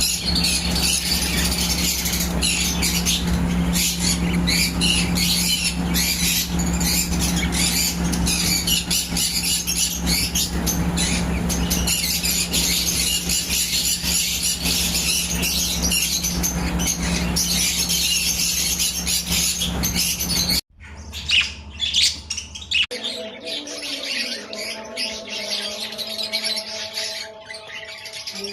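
A flock of budgerigars chirping and chattering continuously over a steady low hum. About 21 s in the sound cuts abruptly to sparser chirps over a few steady held tones.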